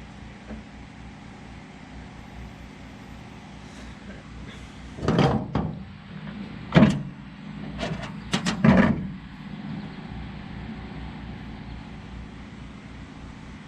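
Tools or parts being handled during engine work: about five sharp knocks and clatters bunched in the middle, over a steady background hum.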